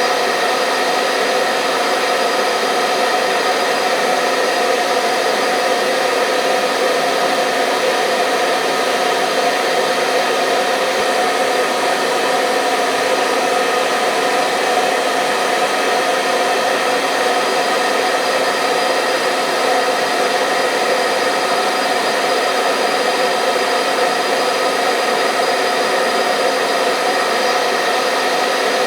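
Hair dryer running continuously at a steady pitch: an even blowing hiss with a steady motor hum, played as white noise to lull babies to sleep.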